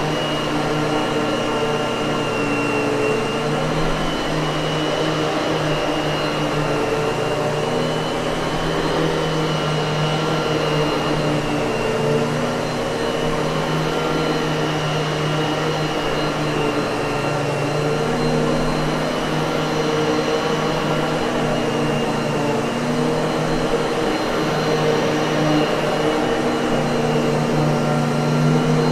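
Miele vacuum cleaner motor running continuously, a steady whine over a constant rush of air with a faint slow wavering in pitch.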